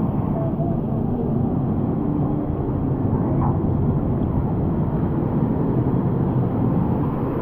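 Steady, muffled low rushing noise of moving water and wind on the camera microphone.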